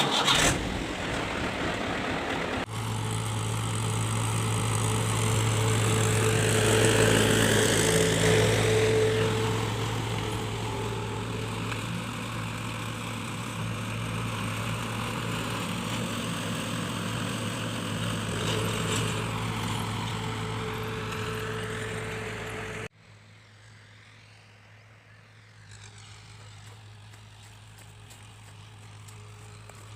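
Tractor diesel engine running steadily, a low even drone. About three-quarters of the way through it cuts abruptly to a much quieter version of the same engine sound.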